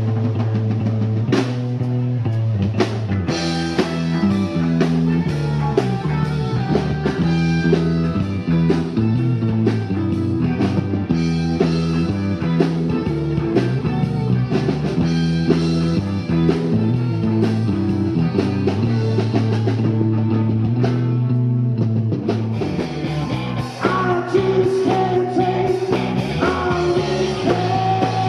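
Indie rock band playing a song with electric guitar, bass and drum kit, driven by a repeating bass line and steady drum hits; a higher melodic line comes in about three-quarters of the way through.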